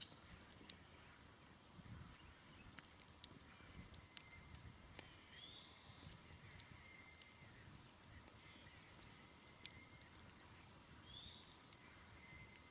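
Faint, sparse crackles and pops from a smoldering campfire, with one sharper pop about ten seconds in. A bird gives a short chirp twice in the background.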